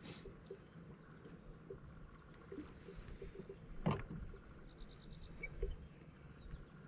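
Faint handling noises in a kayak: scattered small clicks over a low rumble, with one louder knock about four seconds in.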